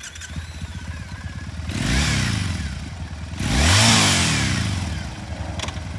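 A 2013 Triumph Bonneville T100's 865 cc parallel-twin engine idling through its pea-shooter mufflers, blipped twice: a short rev about two seconds in, then a bigger, louder rev about four seconds in, each falling back to idle.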